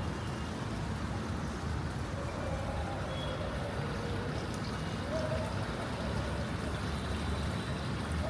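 Steady low rumble of outdoor background noise, with a few faint short wavering tones in the middle range.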